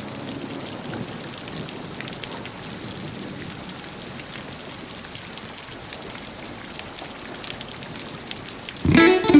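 Steady rain, an even hiss of falling drops. Near the end, music with a guitar starts up over it.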